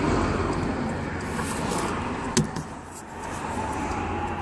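Truck running on the road, a steady low rumble of engine and road noise that dips briefly about three seconds in, with one sharp click just before the dip.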